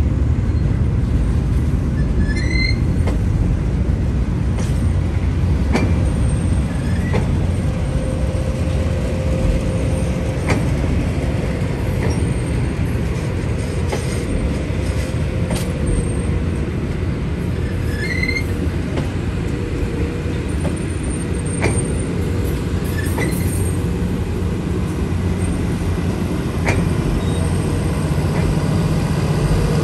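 Passenger cars of a diesel-hauled excursion train rolling steadily past close by, their steel wheels rumbling on the rails with irregular clunks over the track and a faint wheel squeal now and then.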